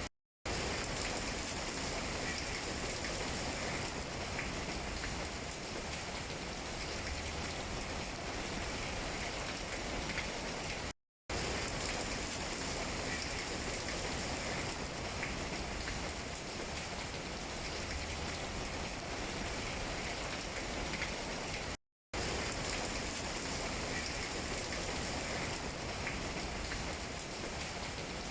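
Steady rain falling on tree leaves, an even hiss with small drop taps scattered through it. It cuts to dead silence for a split second three times, about every eleven seconds.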